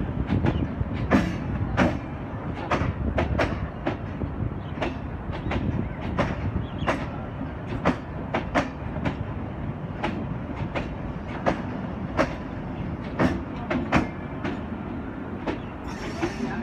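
Old local passenger train running past along the platform: a steady low rumble of the coaches with a long run of sharp wheel clicks over the rail joints.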